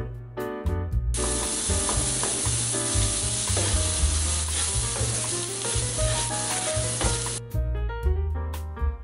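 An egg and chopped onion, sweet pepper and mushrooms sizzling in a hot frying pan as they are stirred and scrambled with a wooden spoon. The sizzle starts about a second in and stops abruptly near the end, over light piano music.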